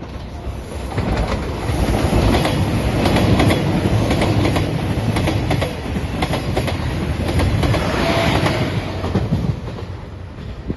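JR Shikoku 2700 series diesel limited express train passing close by at speed, with wheels clicking over the rail joints. It grows loud about a second in and fades near the end.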